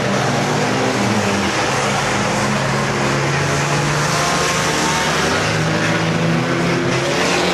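Banger racing cars' engines running and revving on the oval, several at once, steady and loud, their notes rising and falling as the cars go round.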